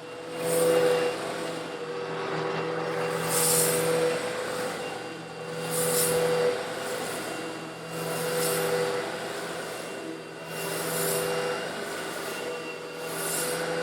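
Eureka vacuum cleaner running steadily while it sucks up small coarse stone granules. A high gritty hiss swells and fades about every two and a half seconds over the steady motor.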